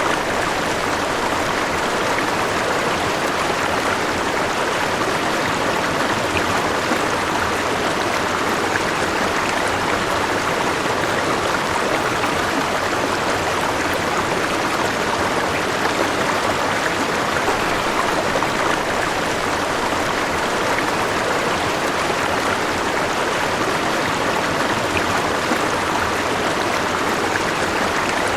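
A river flowing steadily, its water rushing and splashing in an even, unbroken wash.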